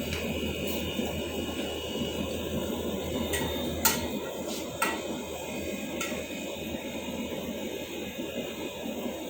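Window air conditioner running steadily with its compressor switched on, a constant low machine noise with a hum beneath it. A few light clicks come about four, five and six seconds in.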